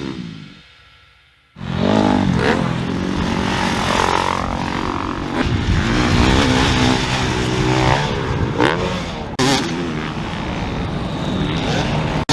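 Rock music fades out, then about a second and a half in, dirt bike engines start up loud, revving up and falling back again and again through gear changes on a motocross track. There is a sharp cut to another shot about nine seconds in.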